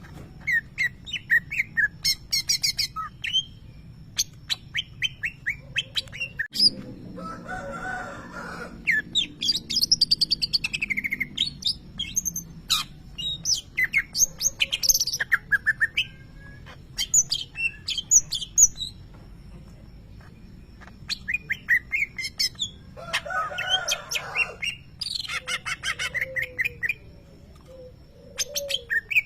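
Greater green leafbird (cucak ijo) singing in repeated bursts of quick chirps and trills, with two louder, harsher rasping phrases partway through. Its song includes mimicry of lovebird calls.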